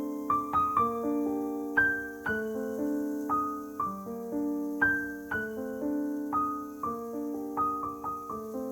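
Background piano music: a gentle melody of single struck notes that ring and fade, a new note every half second or so.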